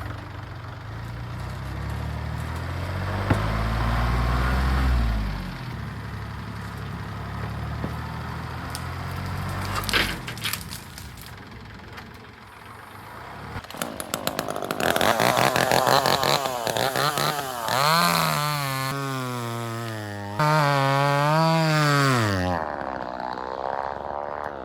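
Kubota L3902 compact tractor's three-cylinder diesel engine running and revving up and down under load as the grapple pushes on the tree, with a few sharp cracks near the middle. The revving is strongest, rising and falling repeatedly, in the last third.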